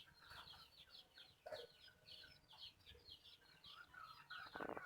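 Near silence with faint, rapid bird chirping, several short chirps a second. No steady machine sound from the photocopier stands out.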